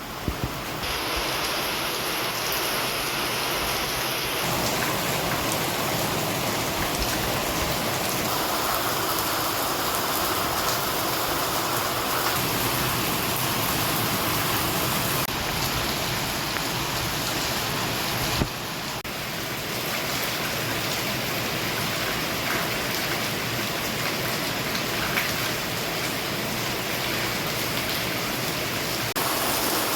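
Steady heavy rain falling, a constant hiss with scattered faint drop ticks.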